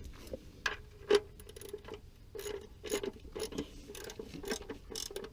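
Irregular clicks and light metallic knocks of hand tools as the oil drain plug is put back in and tightened.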